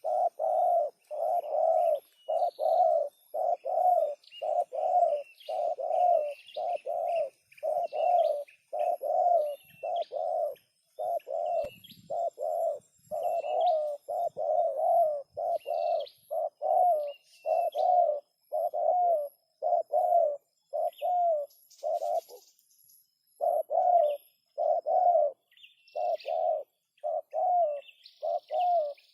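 Spotted dove calling over and over in short, low notes, about one and a half a second, with a brief pause a little past the middle. Small birds twitter faintly higher up.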